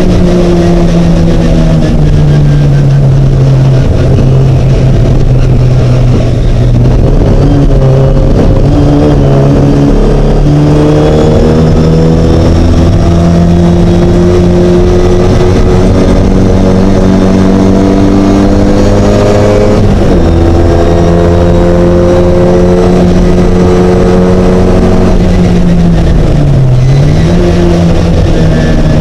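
Mighty Mini race car engine running hard, its note climbing slowly and jumping in pitch several times as it goes through the gears.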